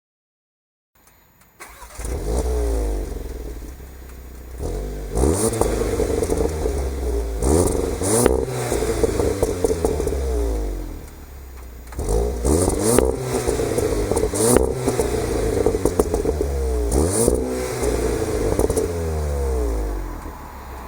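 VW Golf GTI Clubsport's 2.0-litre turbocharged four-cylinder starts about a second and a half in, flares and settles to idle. It is then revved through its stock exhaust in repeated quick blips, with a few sharp cracks as the revs drop. There is a short drop back to idle about eleven seconds in before a second run of blips.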